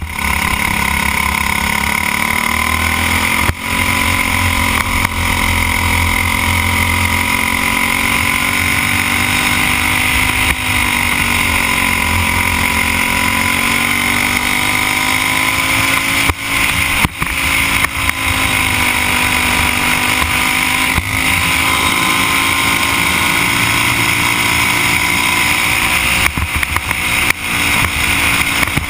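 Briggs & Stratton Animal four-stroke kart engine running hard, its pitch dipping and climbing again several times as the kart slows for corners and accelerates out, heard from the driver's helmet with steady rushing noise.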